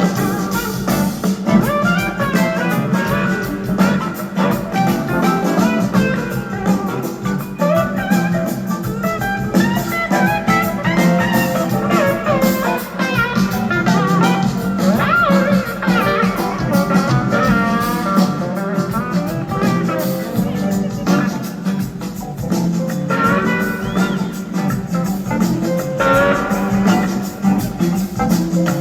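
Live band music with no singing: an electric guitar plays a lead line of gliding, wavering notes over the full band with drums.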